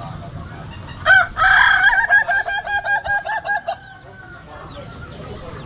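A rooster crowing once, starting about a second in: a long held note that breaks into a fast wavering tail, about seven pulses a second, before stopping.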